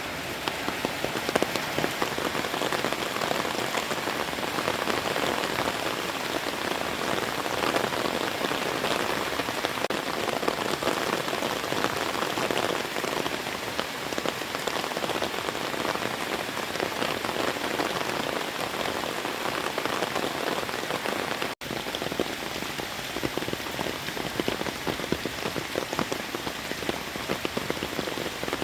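Heavy rain pouring steadily, with the sound cutting out for an instant about three-quarters of the way through.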